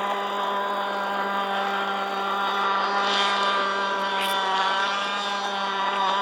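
Shovel nose RC model powerboat's motor running at a steady high pitch with slight wavers in speed.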